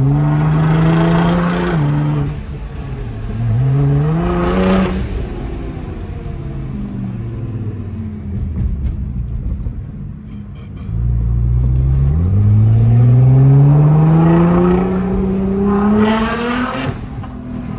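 Nissan GT-R R35's twin-turbo V6 under hard acceleration. The engine pitch climbs and drops at a gear change about two seconds in, then climbs again and eases off. In the second half it rises in one long pull, then drops near the end.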